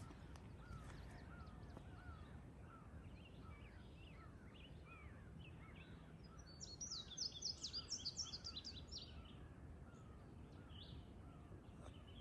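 Wild birds singing: faint chirps throughout, and about halfway through a louder, rapid run of high notes lasting a few seconds.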